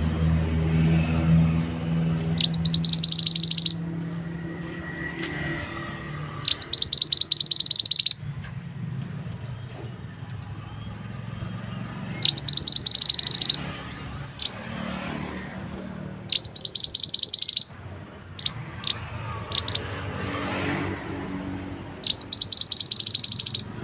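A small songbird known in Java as the mantenan singing in high, tight rolling trills. Each phrase lasts about a second to a second and a half and comes every few seconds, with a cluster of short single chirps about three quarters of the way through. A low rumble runs underneath, loudest at the start.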